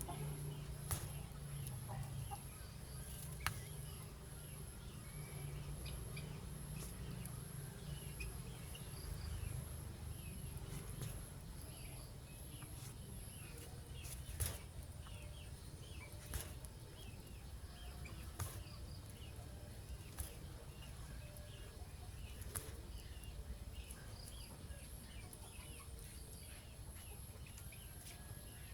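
Outdoor ambience: a low rumble, faint high pulsing insect-like buzz about twice a second, scattered small bird chirps, and a few sharp clicks.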